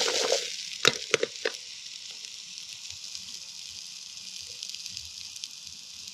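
Chopped onion and sausage frying in a pan on a Trangia alcohol stove: a steady sizzle, a little louder at the start, with three sharp clicks about a second in.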